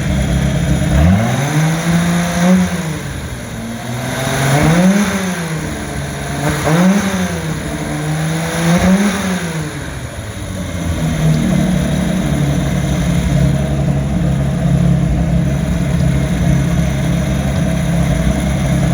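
1989 MerCruiser 4.3-litre Chevy V6 marine engine with a Holley four-barrel carburetor, running out of the boat. It is blipped four times, each rev rising and falling back, over the first ten seconds or so, then settles into steady running.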